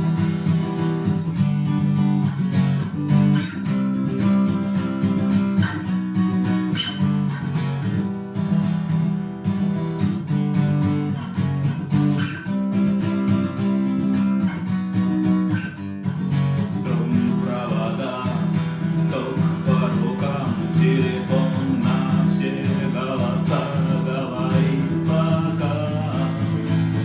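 Acoustic guitar strummed in a steady rhythm, the strum punctuated by regular percussive muted strikes on the strings (the 'stuk' strumming technique). From about two-thirds of the way in a higher melodic line joins over the chords.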